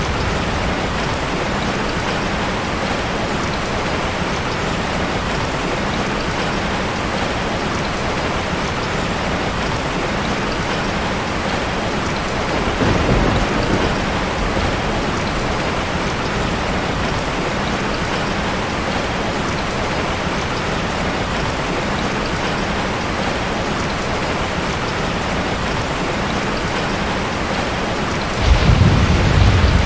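Heavy rain falling in a steady hiss. A low rumble of thunder comes about halfway through, and a louder one near the end.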